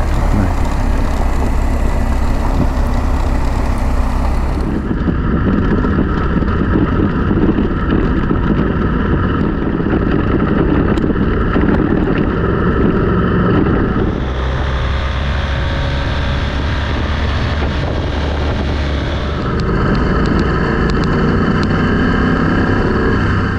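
BMW GS adventure motorcycle's boxer-twin engine running steadily on the move, with wind noise on the microphone and tyres on a gravel road; the engine note and wind level change abruptly a few times.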